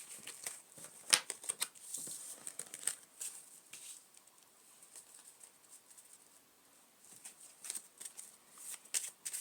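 A deck of playing cards being handled and laid down: scattered rustles and light taps, busier in the first three seconds and again near the end, sparse in between.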